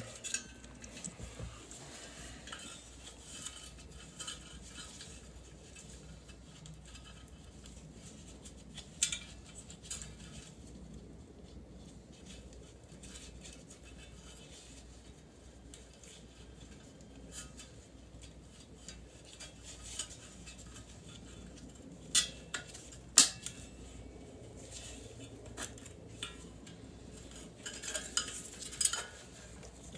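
Small metal furnace parts and screws clinking and tapping as they are handled and fitted back on, with a few sharp metallic clicks, the loudest a little past two-thirds of the way through and another cluster near the end.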